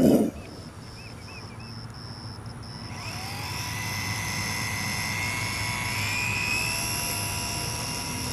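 Radio-controlled model airplane's electric motor and propeller whining in flight. The whine grows louder from about three seconds in, rises slightly in pitch, then eases off a little. A brief loud thump comes right at the start.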